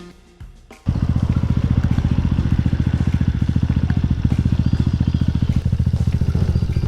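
Kawasaki Ninja 250's parallel-twin engine running with a steady, even pulse, cutting in sharply just under a second in after a quieter moment.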